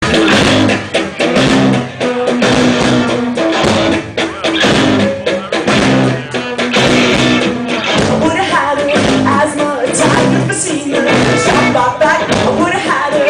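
Indie rock band playing live through a club PA: loud, full-band music with guitar and drums at the start of a song.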